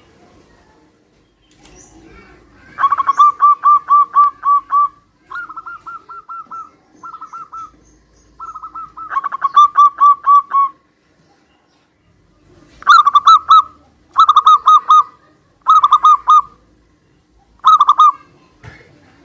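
Zebra doves cooing and answering one another: phrases of quick, evenly repeated staccato notes, some a little higher-pitched than others, the longer phrases in the first half and four short bursts near the end.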